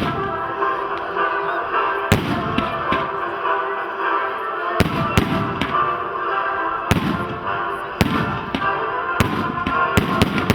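Fireworks display: aerial fireworks going off in a series of sharp bangs at irregular intervals, over steady music.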